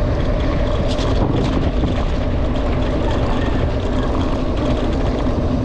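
Steady loud rush of wind and tyre rumble on an action camera while riding a mountain bike.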